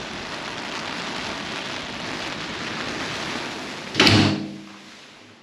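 Steady hiss of heavy rain and wind, then a door slams shut with one loud thump about four seconds in. After the slam the rain noise is much quieter.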